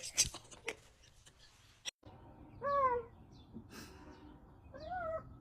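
Husky giving high-pitched howling 'screams': one short cry falling in pitch about two and a half seconds in, then another rising cry near the end. There are a few light knocks in the first second.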